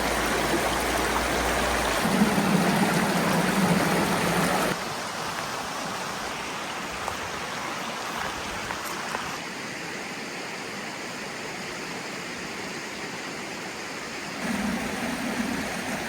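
Valley stream rushing over rocks, a steady wash of water noise that drops abruptly in level about five seconds in and rises again near the end, as between separate shots.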